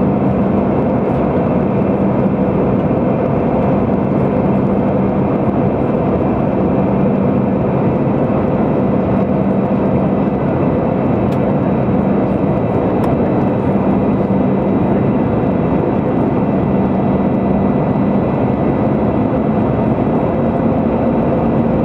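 Steady engine drone and rushing airflow inside an airplane cabin in flight, with a low hum that holds at one pitch.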